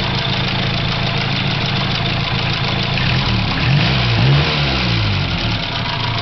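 1949 Crosley four-cylinder engine idling steadily. Its speed rises and falls briefly around the middle, then settles back to an even idle.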